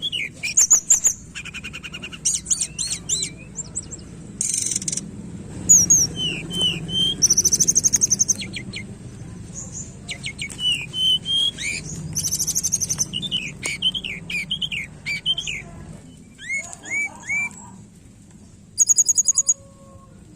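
Tledekan gunung songbird singing a busy, varied song of chirps, short slurred whistles and fast buzzy trills, thinning to a few separate calls for the last few seconds.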